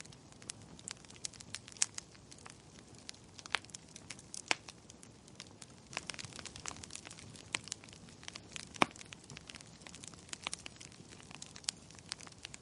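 Wood fire crackling in a fireplace: irregular sharp pops and snaps over a soft steady hiss of burning, with a few louder pops.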